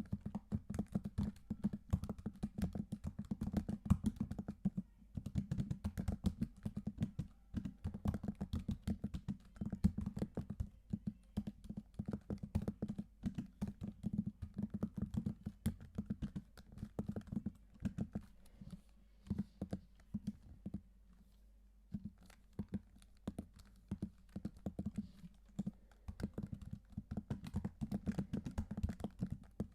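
Typing on a computer keyboard: a quick, uneven run of key clicks that thins out briefly about two-thirds of the way through.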